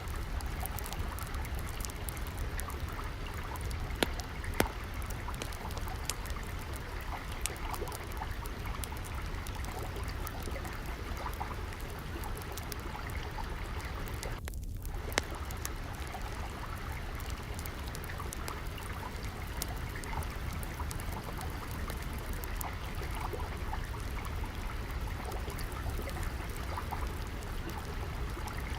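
Steady trickling, flowing water with a low rumble beneath it, over which the sharp crackles and pops of a wood fire come at random, the loudest about four seconds in and just after fifteen seconds. The water sound briefly drops out just before fifteen seconds.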